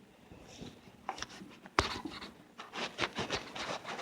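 The phone's camera lens being wiped: rubbing and scratching right against the microphone, denser in the second half, with one sharp tap a little under two seconds in.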